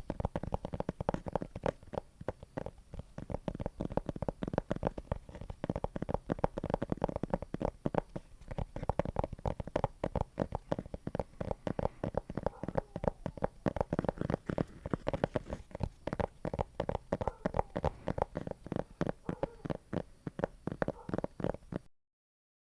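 Close-miked ASMR trigger sounds: a dense, irregular stream of soft, squishy clicks and crackles, many a second. It stops abruptly near the end.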